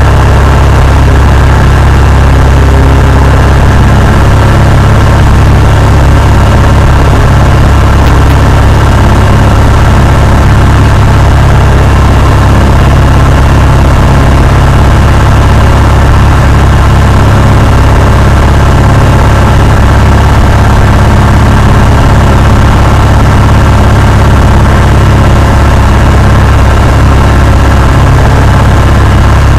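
Cessna 172's piston engine and propeller running steadily and loud, with no change in pitch or power.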